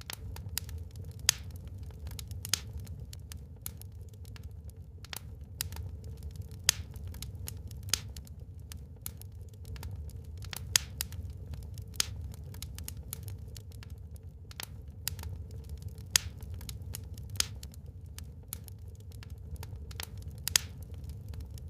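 Wood fire crackling in a fireplace: irregular sharp pops and snaps, a handful much louder than the rest, over a steady low rumble.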